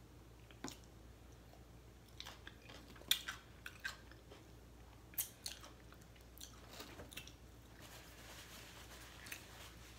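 A person chewing crunchy food up close, with sharp crunches and clicks scattered through, the loudest a little after three seconds in.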